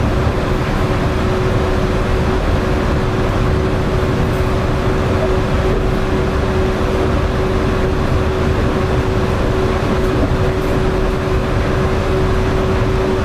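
Yurikamome rubber-tyred automated guideway train running at steady speed: an even rumble of tyres on the guideway with a constant mid-pitched whine from the drive.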